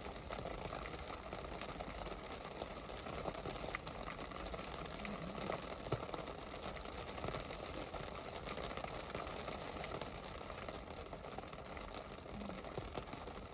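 Steady rain falling, an even hiss studded with many small drop ticks.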